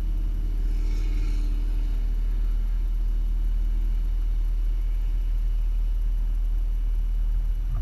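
A Jeep's engine running while driving, a steady low rumble with an engine hum. A brief hiss comes about a second in.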